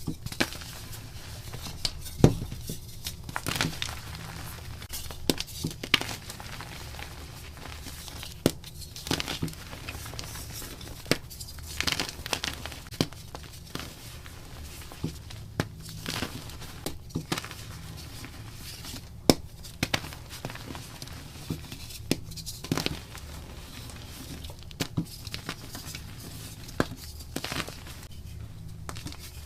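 Block gym chalk being crushed and broken up close: irregular crunches and sharp snaps, several a few seconds apart, over a faint low hum.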